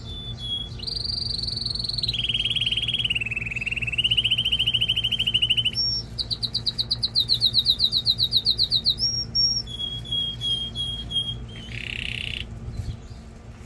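Male domestic canary singing, a song of rapid repeated trills that switches to a new trill every second or two, with a fast run of rattling high notes in the middle.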